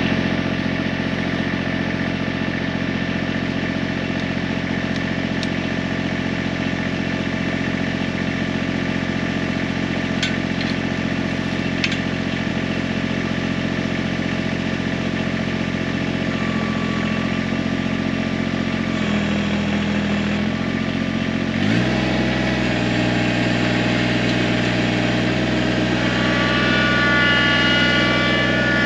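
Kubota BX23S sub-compact tractor's three-cylinder diesel engine running steadily. A little past two-thirds in it revs up quickly and holds at a higher engine speed.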